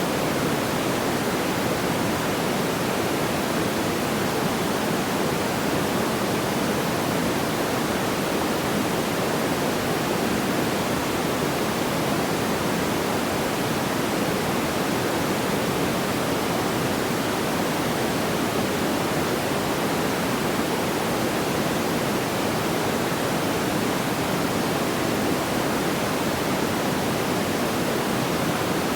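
Steady, even rushing noise like pink noise, fullest in the low-middle range, with no distinct pops or crackles.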